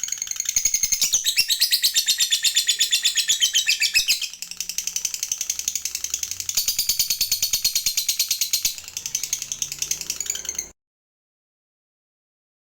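Lovebird giving its long 'ngekek' chatter, a rapid, even run of shrill chirps at about eight to ten notes a second, coming in loud stretches with a softer patch in between. It breaks off suddenly about ten and a half seconds in.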